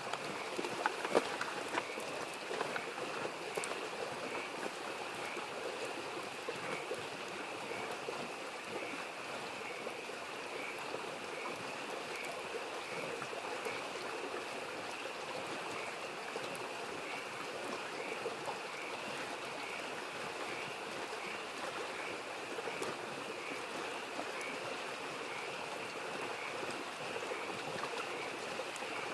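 Steady rushing of a small stream with frogs calling in an even, repeating chorus, and a wood campfire crackling with a few sharp pops about a second in.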